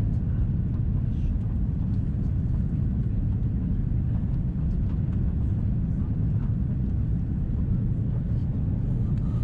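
Steady low rumble of engine and airflow noise inside the cabin of an Airbus A330-300 with Rolls-Royce Trent 700 engines on final approach.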